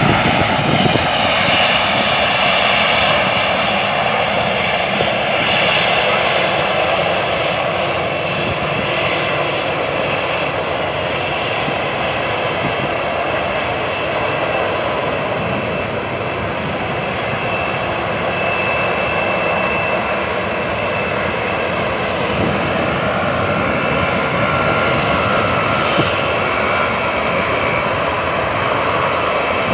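Boeing 737-800's CFM56-7B jet engines running: a loud, steady rush with a whine of high fan tones above it that shift slightly in pitch.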